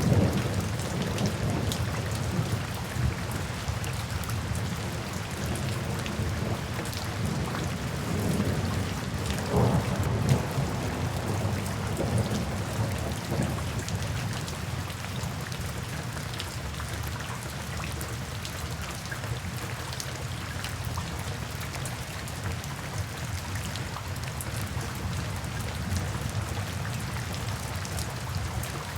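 Steady rain falling, with low rolls of thunder: one dies away in the first moments and another swells and fades around ten seconds in.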